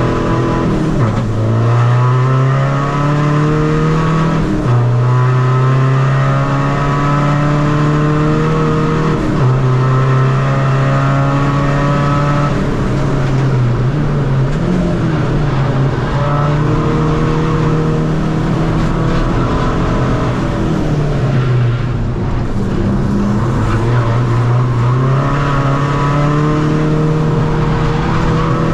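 Seat Ibiza FR's tuned 2.0 common-rail diesel engine pulling hard through the gears on track: revs climb steadily and drop sharply at each upshift, about a second in, near five seconds and near nine seconds. Around thirteen to fifteen seconds and again near twenty-one seconds the revs fall and jump about as the driver lifts and changes down, then climb again.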